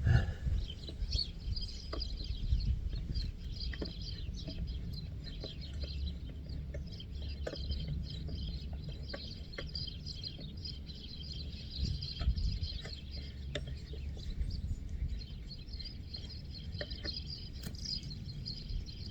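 Birds chirping continuously in the background, over a low rumble, with scattered light clicks and knocks.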